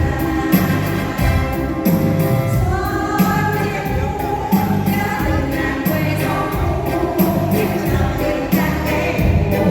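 Women's vocal group singing together over a backing track with a steady beat.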